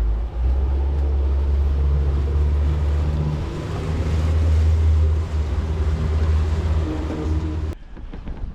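Boat motor running with a steady low hum, mixed with wind and water noise on the microphone; it cuts off suddenly near the end.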